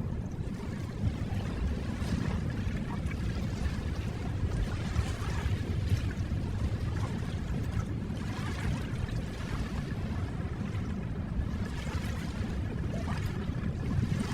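Ocean waves breaking and washing on a shore: a steady low rumble with a swell of surf hiss every few seconds.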